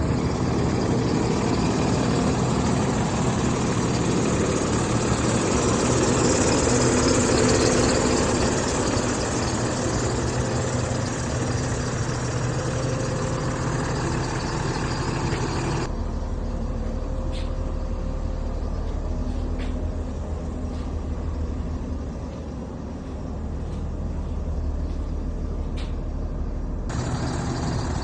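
A 2013 Freightliner M2 box truck's diesel engine idling steadily. About halfway through the sound turns abruptly duller, losing its upper hiss, and brightens again near the end.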